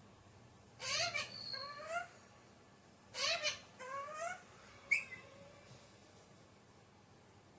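Alexandrine parakeet calling: two bursts of rising and falling squawks, each about a second long, the first about a second in and the second about three seconds in, then one short sharp note.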